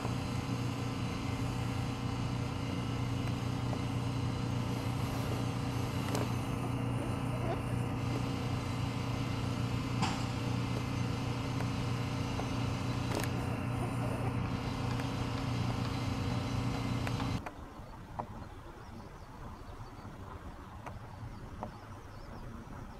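Steady electrical hum and machinery noise from a standing electric train, with a few sharp clicks. About 17 seconds in it cuts off suddenly to a much quieter outdoor ambience with faint insects.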